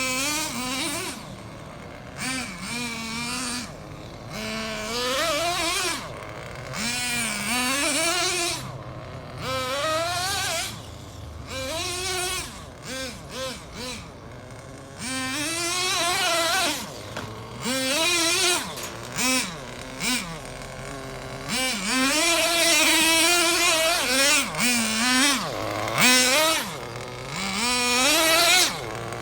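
Radio-controlled car's motor revving up and down in short repeated bursts with a pitch that rises and falls, along with the hiss of its tyres skidding as it spins donuts.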